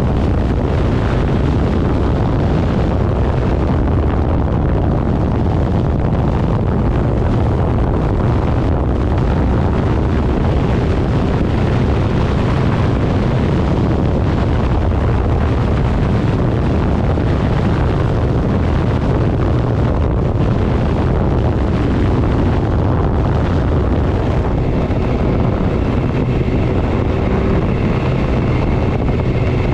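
Heavy, steady wind noise buffeting the microphone of a moving vehicle, over a low rumble from the vehicle. Faint steady tones join in during the last few seconds.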